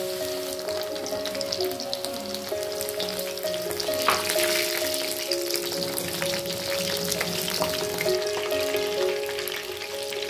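Flour-coated prawns deep-frying in hot oil in a pan: a dense, steady sizzle and crackle, with a louder crackle about four seconds in. Background music plays under it.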